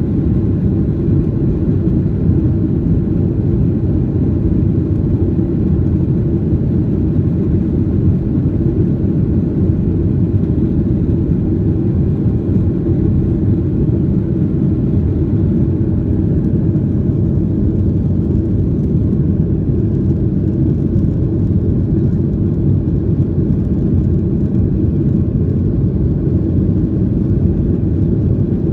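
Cabin noise inside a Boeing 737-800, heard from a passenger seat: its CFM56-7B turbofan engines and the rushing air make a loud, steady low rumble that holds even throughout.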